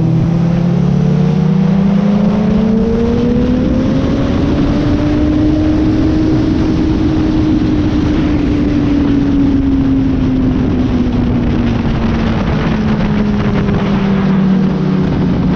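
Suzuki GSX-R sportbike engine on a track, revs climbing steadily for about six seconds, then easing off and holding steady, under heavy wind rush.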